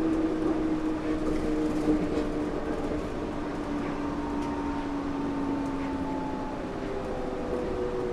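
Yurikamome rubber-tyred automated guideway train heard from inside the car, running with a low rumble. Its motor whine slowly falls in pitch as it slows for the next station.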